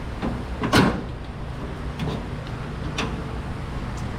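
Light knocks and clicks of metal being handled while the lower windshield panel is fitted: one sharper knock about a second in, then a few faint ticks, over a steady low hum.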